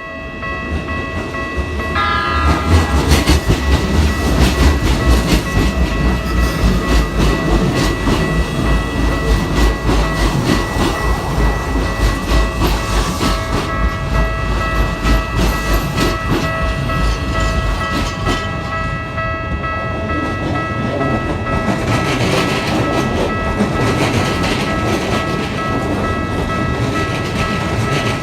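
Keikyu Line train passing over a Japanese level crossing. A heavy rumble and clatter of wheels on rail builds in the first couple of seconds and eases after about fifteen seconds, under the crossing's warning bell ringing at steady pitches throughout.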